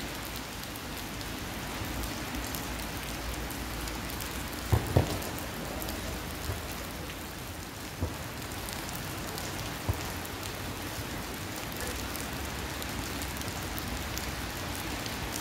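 Steady rain falling, an even hiss, with a few short dull thumps: two close together about five seconds in, the loudest, and two fainter ones a few seconds later.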